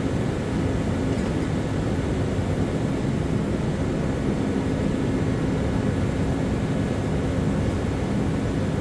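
A steady, even mechanical drone with a constant low hum, unchanging throughout.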